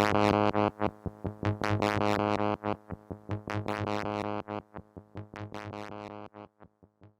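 Moog Mother-32 analog synthesizer modulated by a Comdyna GP-6 analog computer running the Lorenz equations. It plays an irregular, chaotic stream of short, bright plucked notes over a steady low drone. The sound fades out toward the end.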